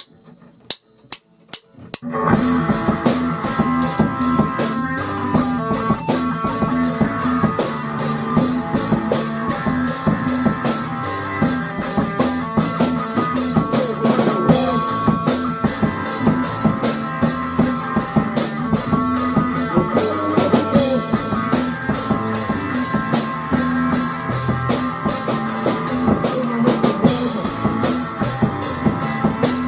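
Rock music with drum kit, bass and guitar, starting in full about two seconds in after a few sharp clicks, then playing steadily.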